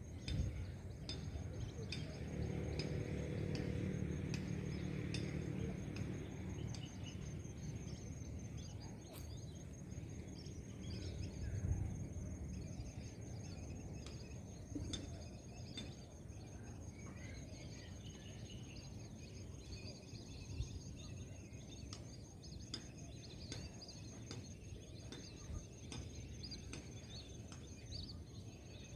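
Outdoor wetland ambience: scattered short bird chirps and calls over a steady low rumble, which is strongest in the first few seconds, with a steady high-pitched pulsing trill throughout.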